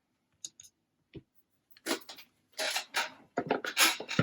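Small metal and plastic RC differential parts being handled on a workbench: a few light clicks, then a run of louder clattering and rustling from about two seconds in.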